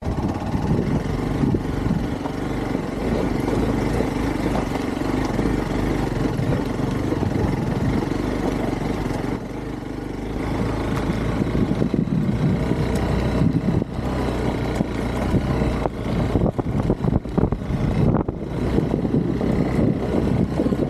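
Hero XPulse 200 4V's single-cylinder engine running while the motorcycle is ridden. The sound changes abruptly about halfway through, and near the end it dips in and out repeatedly.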